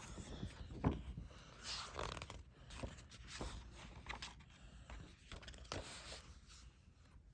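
Paper pages of a picture book being handled and turned: faint, irregular rustling and scraping with small clicks.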